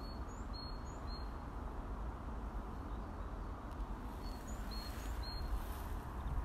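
A few short, thin, high bird notes, some with a quick upward slide, near the start and again after about four seconds, over a steady low outdoor rumble.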